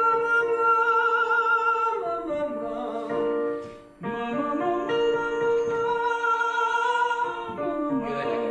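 A male singing student sings a vocal warm-up exercise over piano accompaniment: two phrases, each rising to a held note with vibrato and then gliding back down.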